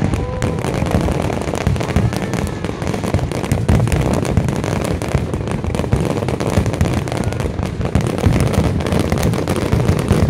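Aerial fireworks going off in a dense, continuous barrage: rapid overlapping bangs and crackling with a low rumble, no break anywhere.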